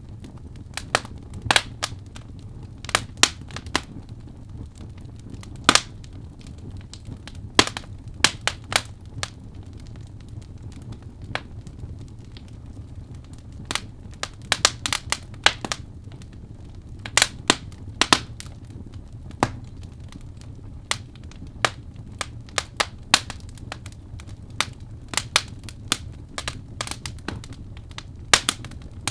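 Wood fire burning in a fireplace, crackling with irregular sharp pops, sometimes single and sometimes in quick clusters, over a steady low noise.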